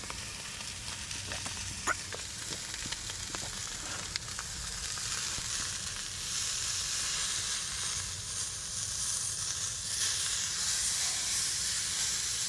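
Steak sizzling in a hot oiled cast iron pan over a propane camp burner, with small crackles and pops. The sizzle grows louder about halfway through and again near the end.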